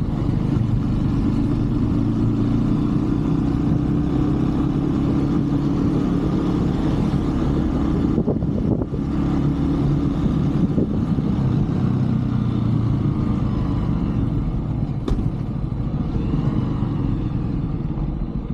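Brixton 125cc single-cylinder motorbike engine running steadily while riding, its note shifting a little as the throttle changes, with a brief drop in the sound about eight seconds in.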